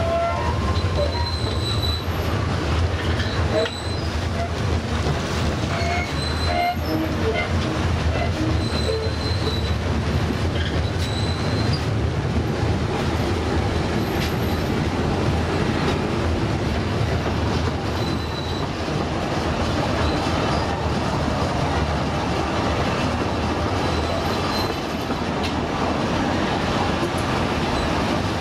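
Narrow-gauge train carriage running steadily, heard through an unglazed open window, with brief high-pitched wheel squeals coming and going now and then, more often in the first half.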